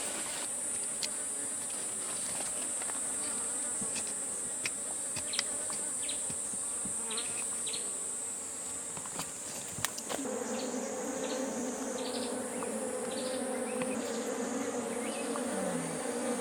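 Bees buzzing at their nest, a low hum that grows close and loud about ten seconds in, over a steady high-pitched insect drone.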